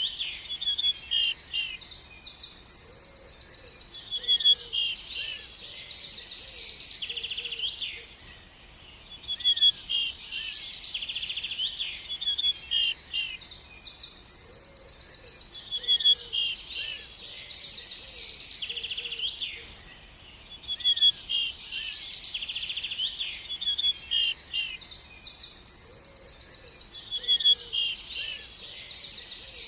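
A songbird singing long phrases of quick high chirps and fast buzzy trills. A short pause separates each phrase, and the same phrase comes back about every twelve seconds.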